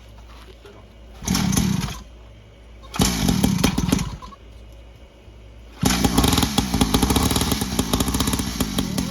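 Small 50cc dirt bike engine ticking over low, then given two short blips of throttle about a second long each. From about six seconds in it runs on at a steady higher speed.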